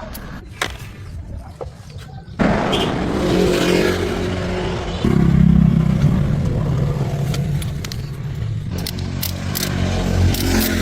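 Old sedan's engine starts about two seconds in and runs, picking up speed about five seconds in, then easing back. Sharp clicks and ticks come near the end.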